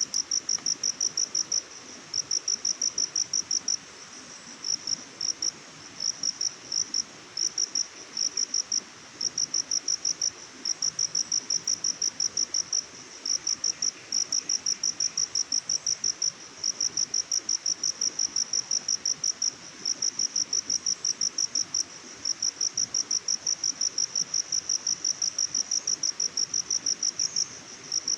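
Cricket chirping in a fast, even pulse, about six or seven chirps a second, in runs of a second or two broken by short pauses, over a faint background hiss.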